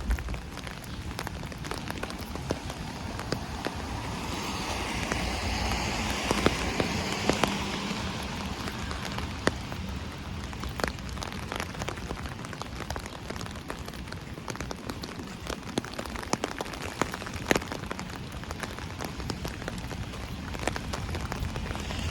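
Steady rain pattering on an umbrella overhead, with many sharp individual drop ticks over an even hiss. The hiss swells louder for a few seconds about four seconds in, then settles.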